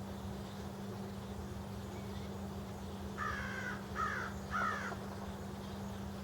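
A crow cawing three times in quick succession, about three seconds in, over a steady low hum.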